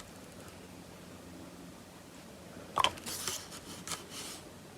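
Small handling noises from a plastic action figure being worked on: quiet at first, then about three seconds in a click and a brief squeak, followed by a second or so of soft scratchy rustling.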